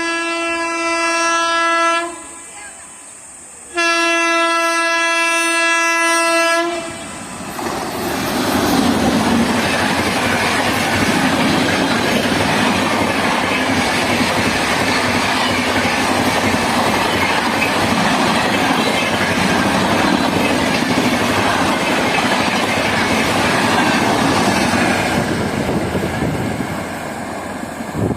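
Indian Railways locomotive horn sounding two long blasts, each two to three seconds, then a train passing close with wheels clattering over the rail joints, dying down near the end.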